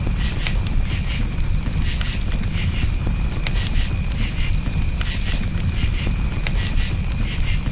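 Crickets chirping in short repeated pulses over a crackling campfire: scattered sharp pops from the burning wood over a steady low rumble of the flames.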